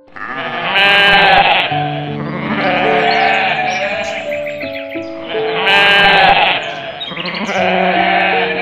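Sheep bleating twice, about a second in and again about five seconds later, each a quavering call, over background music with held notes.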